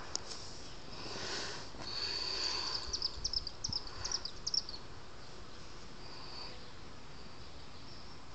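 A bird chirping a quick run of about ten short, high, falling notes a couple of seconds in, over a faint steady hiss.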